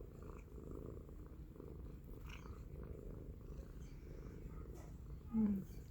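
Domestic cat purring steadily. A brief, louder low sound comes near the end.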